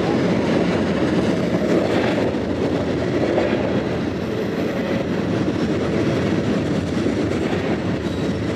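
Freight train of covered hopper cars rolling past, a steady, continuous rumble of car wheels on the rails.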